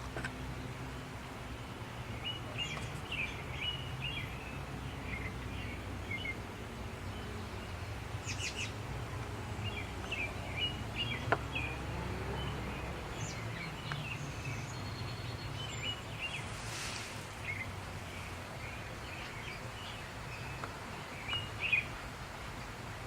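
Songbirds chirping in short repeated calls, over a low steady rumble that fades away a little past the middle.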